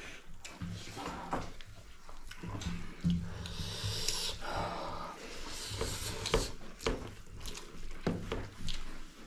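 Sounds of eating a meal from a plate: scattered soft clicks, knocks and rubbing as food is handled, with a stretch of rustling a few seconds in.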